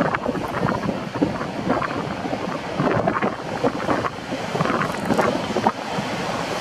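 Electric-locomotive-hauled passenger train running into the station: a steady rushing rumble of wheels on the track, with many short rattles and knocks.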